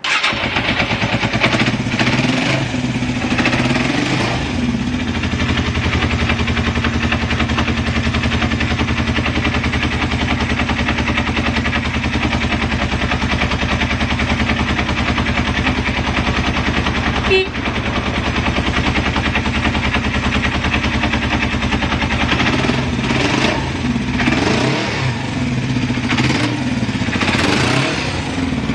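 Yamaha XS400's air-cooled parallel-twin engine catching at the very start, then idling steadily, with a few throttle blips near the end. A stable idle with no abnormal noises, as the seller describes it.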